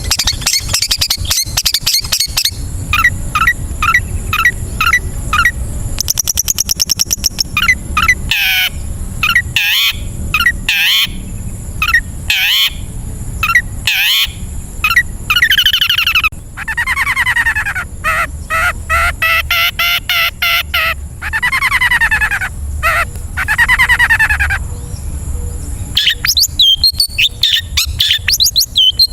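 Long-tailed shrike (cendet) singing a loud, varied song full of mimicked phrases. It runs through quick repeated notes, a fast high trill, sweeping calls and falling whistled phrases, and ends in rapid chattering.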